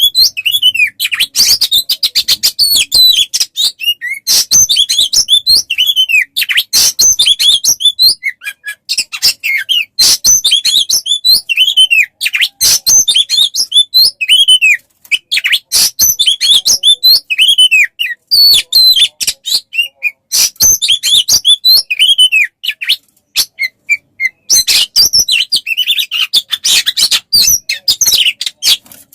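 Songbird masteran (tutor song) recording: a fast, near-continuous run of high chirps, whistled glides and sharp clicking notes, with a couple of brief pauses.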